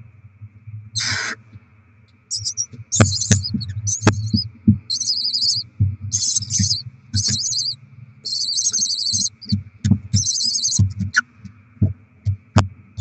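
Barn owl chicks food-begging with repeated short, hissing screeches, after a single louder rasping call about a second in. Scattered sharp knocks and scrapes of the owls moving about, over a steady low hum.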